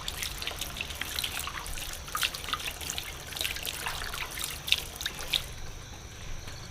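Water trickling and splashing in quick, irregular drips and splashes, which stop about five and a half seconds in.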